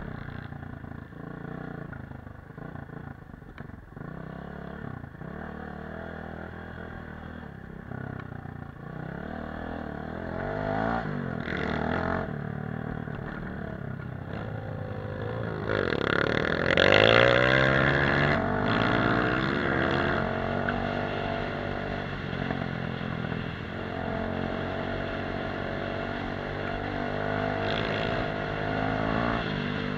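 Off-road motorcycle engine running as it is ridden, its pitch rising and falling as the throttle opens and closes. The loudest surge, a hard rev, comes about two-thirds of the way in.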